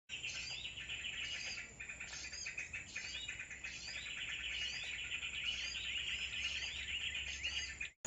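Many small birds chirping and calling together in a dense chorus of short, overlapping chirps and quick whistled notes.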